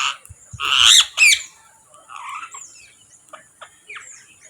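Birds calling: three loud, harsh squawks in the first second and a half, the last falling in pitch, followed by softer short chirps.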